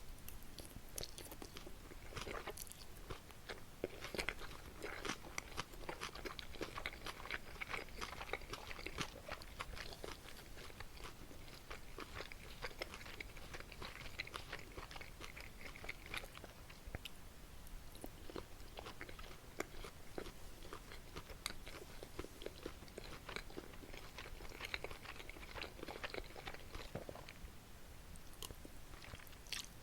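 Close-miked chewing and biting of jokbal (boneless pork feet) and buckwheat noodles, a continuous run of wet, crunchy mouth clicks.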